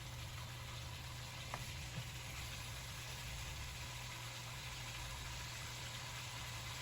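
Chicken pieces frying in coconut oil in a pan, a steady sizzle over a constant low hum, with a couple of light taps about a second and a half in.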